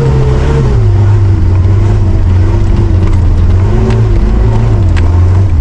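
Mitsubishi Pajero Dakar engine running, its pitch dropping in the first second and then rising and falling gently as engine speed changes. There are two sharp knocks in the second half.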